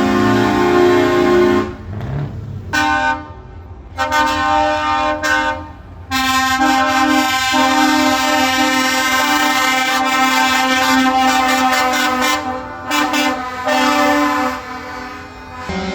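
Truck air horns blowing several tones together: one blast ending about two seconds in, two shorter blasts, then a long blast of about eight seconds.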